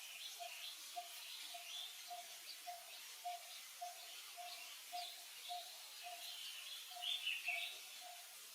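Birds calling in forest: one bird repeats a low note about twice a second, over scattered higher chirps that grow louder near the end.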